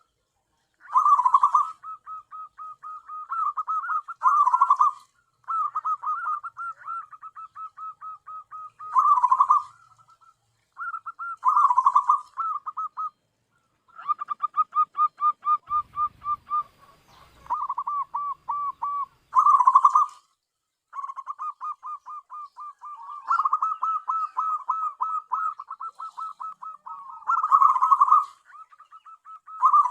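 Zebra dove (perkutut) cooing: phrase after phrase of quick, rapidly repeated coos, several of them set off by a louder note, with short pauses between phrases.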